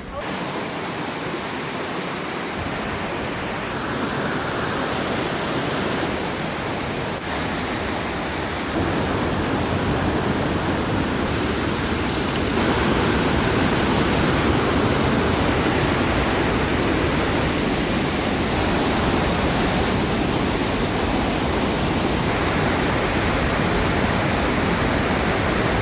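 The Partnach river's white water rushing through the narrow gorge: a steady, loud roar of water that gets louder in steps about 9 and 13 seconds in.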